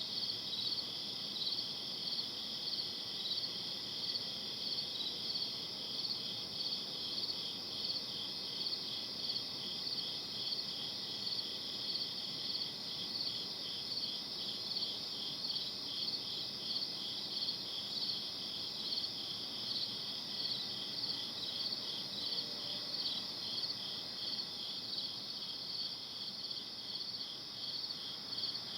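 Crickets chirping in a steady night chorus, with several overlapping rhythmic trains of high chirps repeating a few times a second over a faint low hiss.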